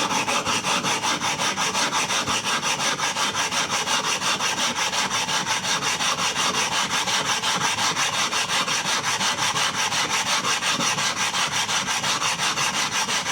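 A small flattening stone rubbed rapidly back and forth against a coarse water stone, a steady gritty scraping of about five strokes a second, grinding the stone's dished surface flat.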